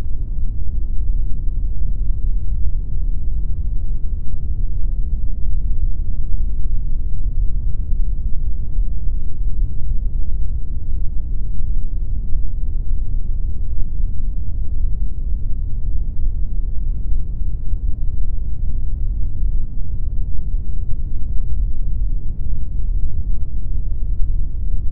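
Pink noise: a steady, unchanging deep rush of noise, weighted toward the lows, with little hiss up top.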